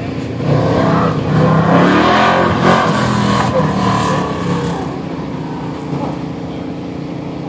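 Red autocross coupe's engine revving hard through a cone course, its pitch rising and falling as the driver accelerates and lifts. It is loudest in the first half, then settles to a quieter, steadier drone as the car moves off.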